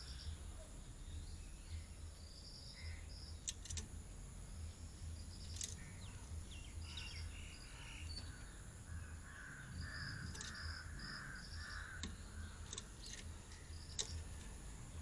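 Birds calling: groups of short harsh repeated notes, with a run of about five in a row around ten seconds in and higher chirps scattered throughout, over a steady low hum.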